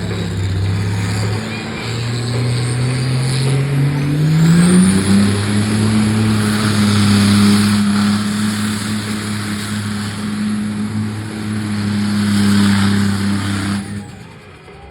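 Monster truck engine revving up, climbing in pitch for a few seconds and then held at high revs, with a high whine rising with it; the sound cuts off suddenly near the end.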